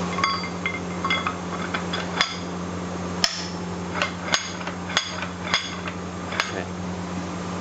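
Irregular metallic clinks and knocks, each with a short ring, as a steel chisel bit is handled and fitted into a concrete breaker's tool retainer. A steady low hum runs underneath.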